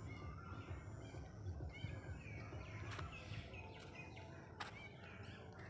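Faint outdoor ambience: small birds chirping over and over against a steady low rumble, with a couple of brief soft clicks.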